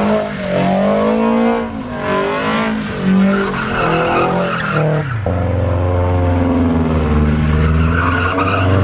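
Car engine revving up and down repeatedly as its tyres spin and squeal through donuts. About five seconds in, the revs settle into a steadier, lower drone.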